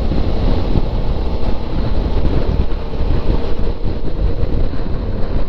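Steady wind noise on the rider's microphone over the running V-twin engine of a Suzuki V-Strom 650 motorcycle being ridden at low speed.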